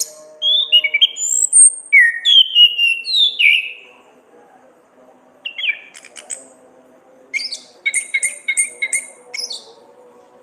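Orange-headed thrush singing: a run of loud whistled, gliding phrases over the first few seconds, then a pause of a couple of seconds. A short phrase follows, then a quick series of repeated notes near the end.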